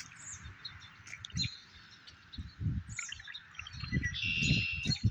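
Small songbirds chirping, with a longer song phrase near the end, over a steady hiss and irregular low thumps.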